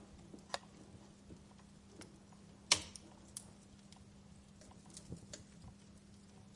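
Wood fire crackling: scattered sharp pops and snaps at irregular intervals, the loudest a single crack a little under three seconds in, over a faint steady hum.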